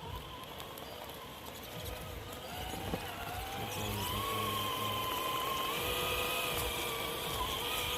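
Electric motor of a Traxxas RC car whining as it speeds up. The pitch rises and the sound gets louder a couple of seconds in, then it holds at a fairly steady, slightly wavering pitch.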